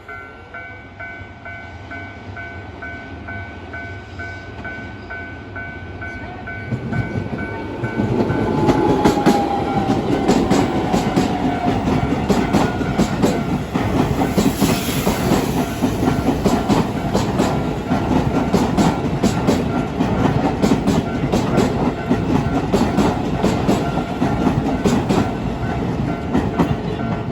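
Level-crossing warning bells ringing steadily as a Keisei 3000-series electric train approaches. About seven seconds in the train reaches the crossing and runs through it for the rest of the time, loud, its wheels clattering rhythmically over the rail joints and the crossing.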